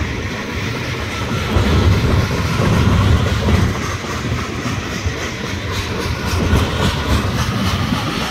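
Freight train of tank cars and covered hoppers rolling slowly past, a steady rumble of steel wheels on rail with rhythmic clicking over the rail joints, most noticeable in the second half.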